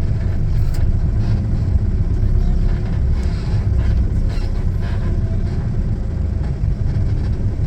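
Bus riding along, heard from inside the passenger cabin: a steady low rumble of engine and road noise.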